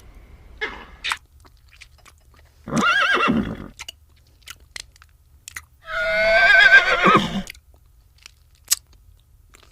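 Horse whinnying: a shorter call about three seconds in, then a longer, louder whinny with a wavering pitch about six seconds in. Scattered short clicks fall between the calls.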